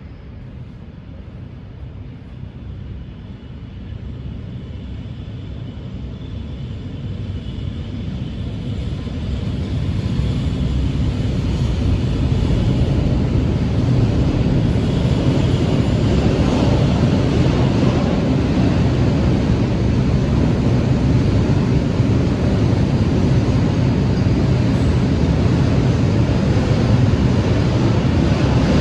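Train approaching, its rumble growing louder over about twelve seconds, then passing close by with a steady, heavy rumble.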